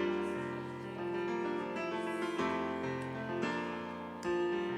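Piano playing slow, sustained chords of a tender ballad accompaniment, with a new chord every second or so and no singing.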